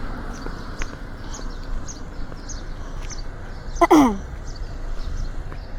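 Steady outdoor background noise with faint high chirps about twice a second. About four seconds in comes one short, loud voice-like call that falls steeply in pitch.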